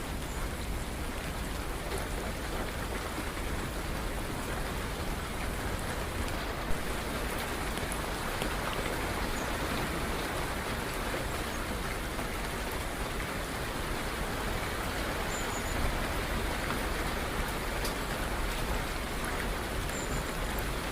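Steady rain falling, with scattered individual drops clicking through it and one sharper drop about seven seconds in.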